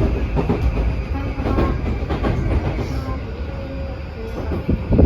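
Tokyu 2020 series electric train running at speed, heard from inside the car: a steady rumble of wheels on rail with repeated rail-joint clacks, and one sharp, loud knock near the end.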